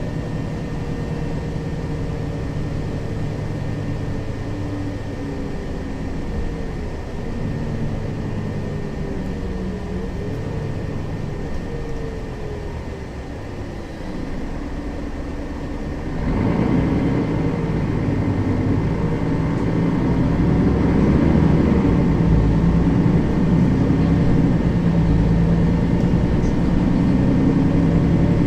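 Interior sound of a Mercedes-Benz Citaro facelift city bus driving, its diesel engine and drivetrain running steadily with a whine that falls in pitch. About sixteen seconds in, the engine comes under load and runs louder as the bus accelerates.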